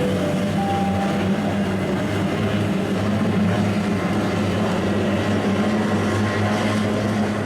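Racing hydroplanes' two-stroke outboard engines droning steadily at full throttle, a constant low hum under heavy wind rush on the microphone.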